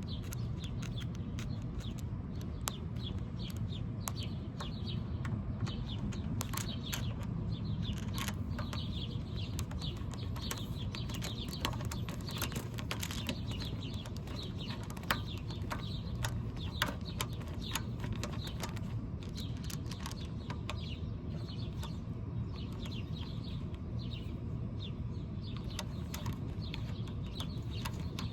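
Small birds chirping over and over, with scattered sharp clicks and light metal-on-metal sounds from hand tools working on a carburetor's main jet; two louder clicks come a little past the middle.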